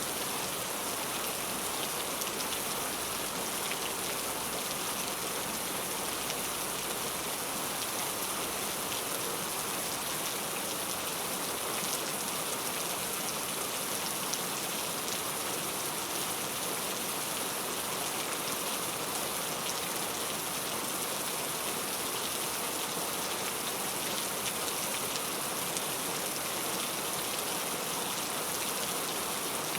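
Heavy rain falling steadily: a dense, even hiss of rain with many fine drop hits.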